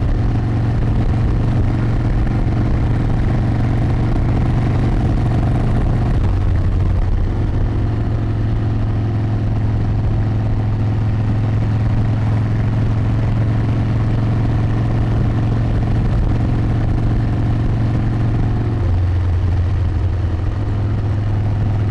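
Harley-Davidson V-twin motorcycle engine running steadily under way, heard from the rider's seat. The engine note shifts about six seconds in and again near the end.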